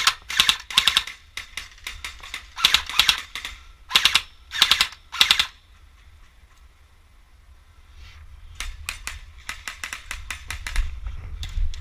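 Airsoft guns firing in bursts of rapid shots: several bursts in the first five seconds, a lull, then more scattered shots near the end.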